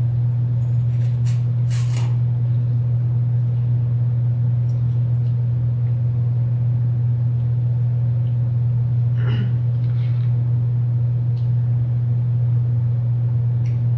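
A steady, loud low hum, with a few faint clicks near the start and a brief faint voice-like sound about nine seconds in.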